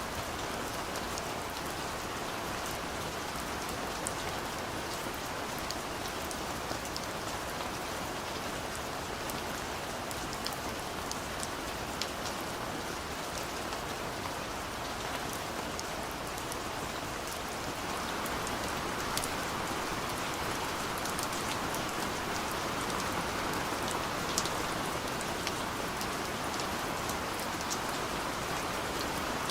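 Steady rain falling, with many separate drops ticking through it. It grows a little louder a little past halfway.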